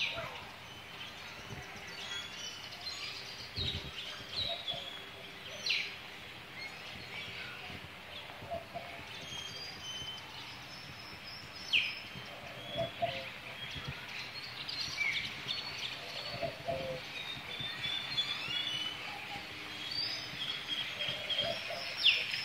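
Birds chirping and calling, many short chirps and quick falling notes scattered throughout, over a faint steady hum.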